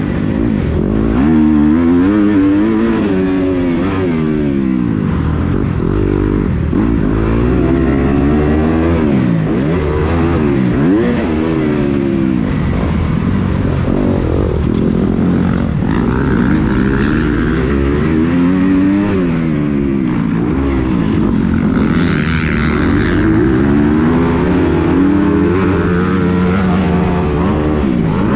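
Kawasaki KX250 motocross bike engine being ridden hard, its pitch rising and falling over and over as the throttle opens and closes and the bike shifts through the gears.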